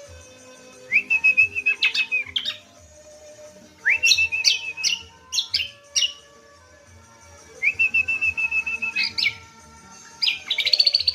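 Cucak kombo (kacial Lombok) singing: four phrases separated by short pauses. Each phrase starts with a rising note, runs into a level, fast warbling trill, and is broken by quick high upward sweeps.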